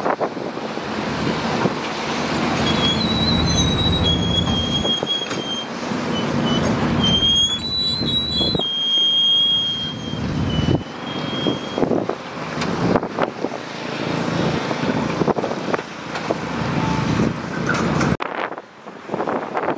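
Heavy excavator working: the diesel engine runs under load and surges as the hydraulics work. A wavering high-pitched squeal runs through the first half. The sound changes abruptly near the end.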